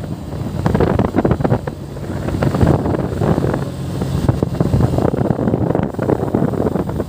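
Yamaha FZ V3's single-cylinder engine running at a steady speed while riding, with wind buffeting the helmet microphone.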